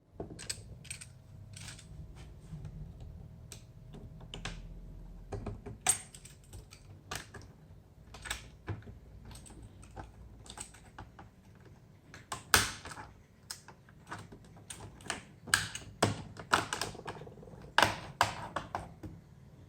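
Typing on a laptop keyboard: irregular key clicks, sometimes several in quick succession, over a faint steady hum.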